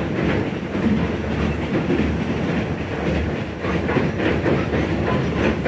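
Inside a Vietnamese passenger train carriage under way: a steady rumble of wheels on the track with a running clatter and rattle. The carriage is swaying and shaking hard.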